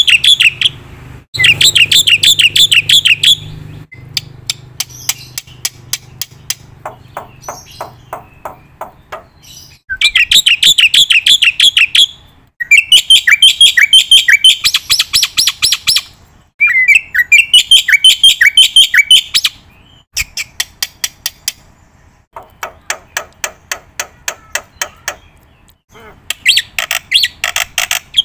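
A bird calling close by: runs of loud, rapid, repeated chirps a few seconds long, alternating with quicker, thinner ticking notes.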